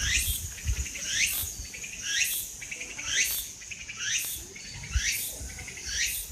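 An animal call repeated about once a second, each a quick rising chirp, with low wind rumble on the microphone now and then.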